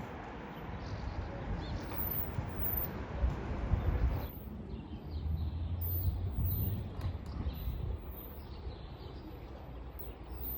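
Train running along the track, with wheels knocking over rail joints above a steady low rumble. About four seconds in, the higher hiss drops away abruptly and a low hum comes up.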